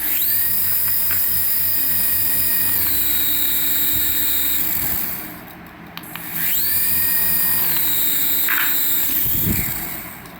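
Small electric motor of a remote-control toy running in two bursts. Each burst starts with a rising whine, holds a steady high pitch, drops to a lower pitch and fades. The second burst starts about six seconds in.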